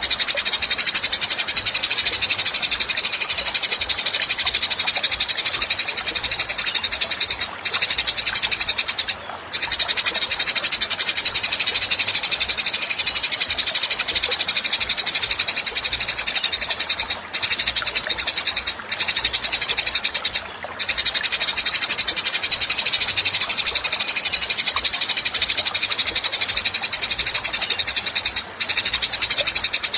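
Songbird song from a training recording: a high, very fast rattling trill, nearly continuous and broken by a few short pauses.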